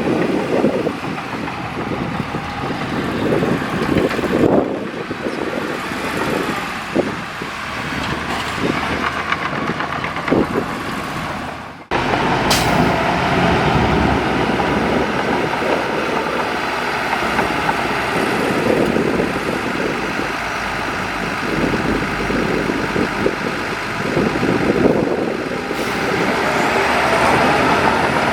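Heavy diesel earthmoving machinery, a bulldozer and dump truck, running and working under load as a steady engine drone. The sound breaks off abruptly about twelve seconds in and picks up again with similar engine noise.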